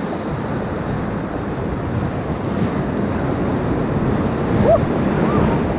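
Steady rushing of the Upper Ocoee River's whitewater around the raft, with wind on the microphone.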